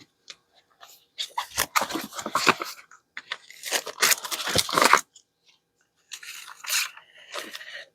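Paper and cardstock being handled, crinkling and rustling in three bursts with short pauses between.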